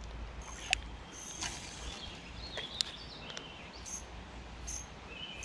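Birds calling: scattered short chirps and whistled notes, some high and some lower, over a low steady outdoor rumble, with a few faint sharp clicks.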